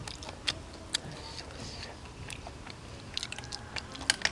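Close-miked biting and chewing of crunchy food, with sharp crackling crunches about half a second and a second in and a cluster near the end.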